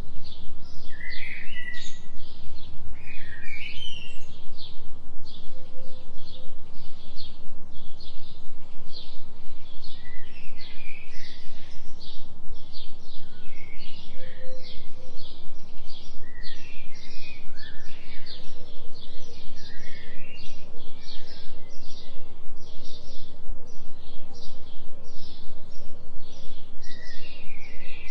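Forest soundscape of small birds chirping in short rising and falling calls, over a steady high-pitched pulsing several times a second and a low steady drone, the carrier of a delta binaural beat.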